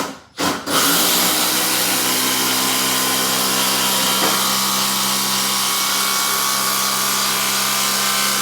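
Cordless 12-volt impact driver sinking a screw into wood under load after two short trigger blips, running steadily and without stalling for about eight seconds.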